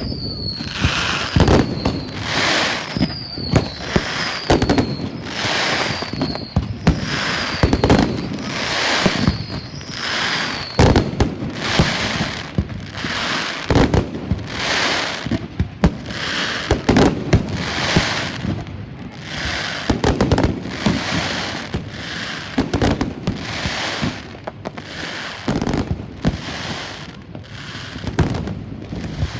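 Fireworks going off in quick succession, about one burst a second: sharp bangs, each with a short hiss. For the first ten seconds or so each shot also carries a brief falling whistle.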